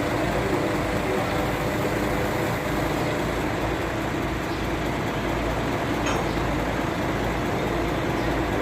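Truck engine running steadily at a constant speed.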